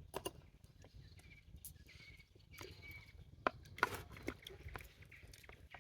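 Faint, scattered clicks and knocks of cutlery and dishes at a meal table, a few sharper taps among them.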